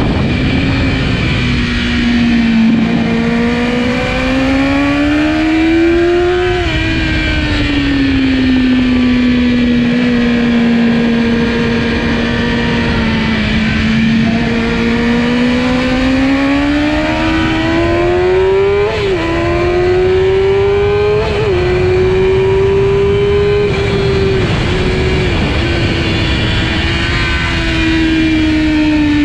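Kawasaki ZX-10R's inline-four engine running hard on a race track, its pitch gliding up and down as the bike accelerates and slows through corners. About two-thirds of the way through, two sharp breaks in the pitch mark quick gear changes.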